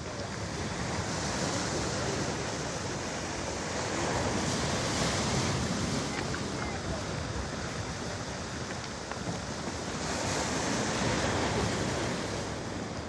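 Storm waves breaking on a pebble beach, a continuous rush of surf that swells into two bigger crashes, about four seconds in and again around ten seconds.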